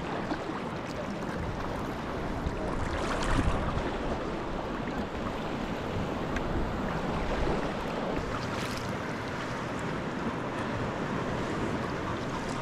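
Sea water washing and splashing around a sea kayak, with wind on the microphone; louder splashes come about three seconds in and again near nine seconds.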